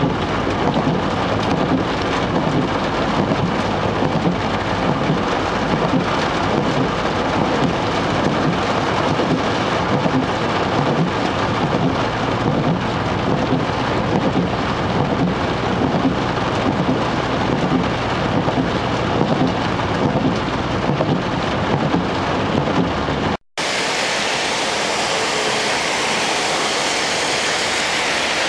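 Heavy rain on a moving car heard from inside the cabin, mixed with low tyre and road rumble on the flooded motorway. About 23 s in it cuts off briefly and gives way to a steadier rushing hiss of rain and water beside the wet road.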